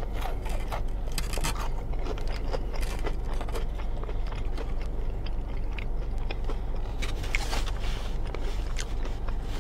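Close-up chewing of battered fried fish: soft bites with small crunches and wet mouth clicks scattered throughout, over a steady low hum.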